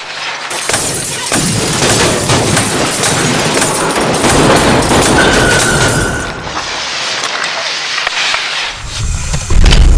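Fireworks banging and crackling in quick succession, with a deep boom near the end.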